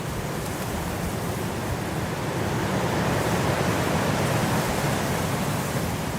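Blizzard wind blowing in a steady rush that swells into a stronger gust midway and eases off toward the end.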